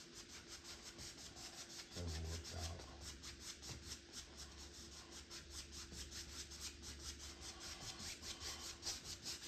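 A paintbrush scrubbing paint onto a canvas in quick back-and-forth strokes, several a second, a dry scratchy rubbing. A brief low thud about two seconds in.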